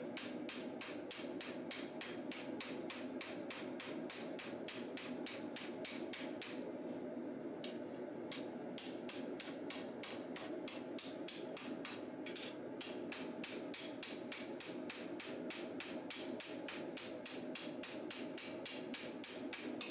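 Hand hammer striking a hot steel katana blade on an anvil in a steady rhythm of about three blows a second, fine-tuning the forged bevels. There is a pause of about two seconds roughly a third of the way in.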